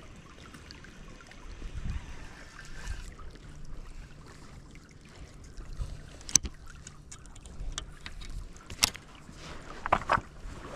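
Water moving and splashing around a fishing kayak on a river, in soft uneven swells, with a few sharp clicks, the loudest about six seconds in.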